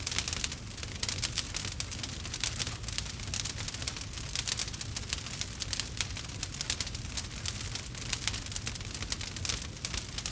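Campfire burning, wood crackling and popping in a dense irregular stream of sharp snaps over a low steady rumble of the flames.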